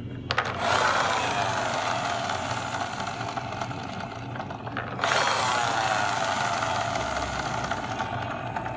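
A toy bus's small motor whirring with a gear rattle, starting about half a second in with a falling sweep that settles into a steady drone, then starting afresh the same way about five seconds in.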